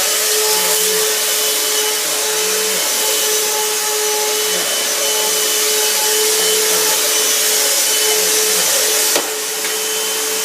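Kenmore vacuum cleaner running steadily, a motor whine over a rush of air. A sharp click comes about nine seconds in, after which it runs slightly quieter.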